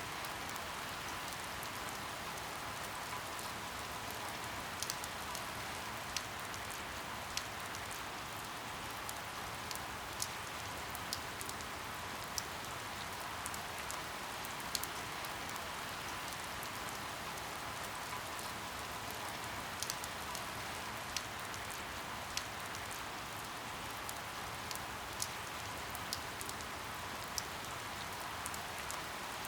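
Steady rain falling, an even hiss with scattered single drops ticking sharply at irregular moments.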